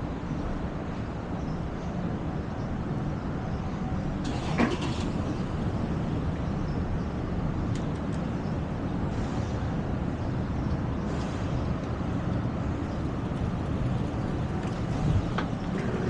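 A road vehicle running steadily, with engine and road noise, and a brief sharper sound about four and a half seconds in.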